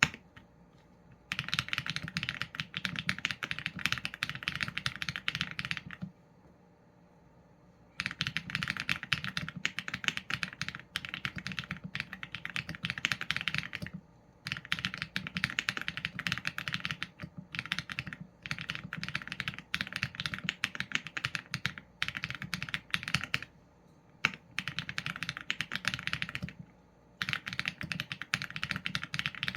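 Typing on a Qsenn A75 mechanical keyboard with Leobog Graywood v4 linear switches and PBT keycaps: runs of quick keystrokes lasting several seconds, broken by short pauses.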